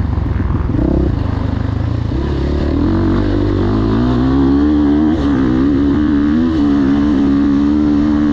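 Motocross bike engine running, the revs varying at first and then held low and fairly steady with a slight wobble.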